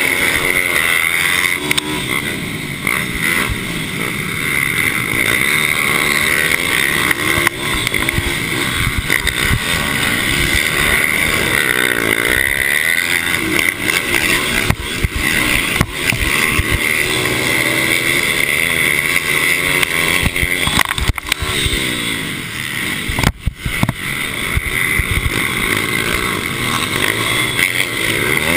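Several racing mini bike engines revving hard, their pitch repeatedly rising and falling as the bikes accelerate and brake, with a brief dip in loudness near the end.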